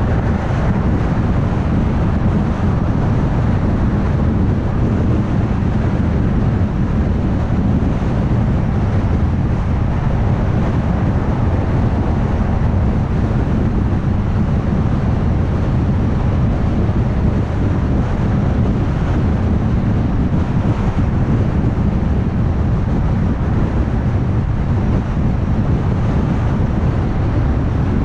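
Steady tyre and engine noise of a car cruising at highway speed, with no changes or separate events.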